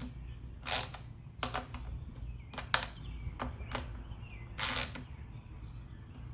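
A string of separate sharp metal clicks and knocks from hand tools and bolts being worked on an engine, the loudest about three seconds in, over a steady low hum.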